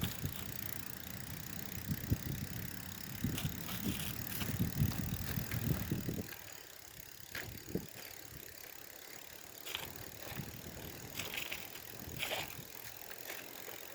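A bicycle being ridden over a bumpy surface: a low rumble for about the first six seconds, then quieter riding with scattered light clicks and rattles from the bike.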